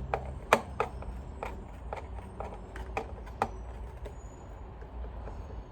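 Irregular clicks and knocks of hard plastic as a Dyson vacuum's cyclone assembly is handled and turned over, with a sharper knock about half a second in and another past the halfway point.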